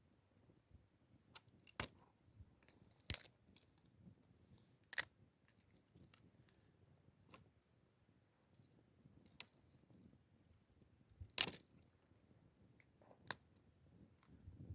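Wood campfire crackling: irregular sharp pops and snaps, about five of them louder than the rest.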